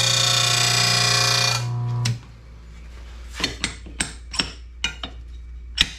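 RBG 712 mower blade sharpener grinding the heavy side of a mower blade: a steady, high-pitched whine over a low hum that cuts off about two seconds in. A string of sharp metal clinks and knocks follows as the blade is handled and set on the balancer.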